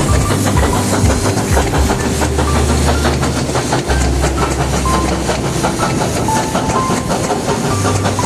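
1906 ALCO 2-8-0 Consolidation steam locomotive, Duluth & Northeastern No. 28, working with its train: a steady hiss of steam over the clatter of the wheels on the rails.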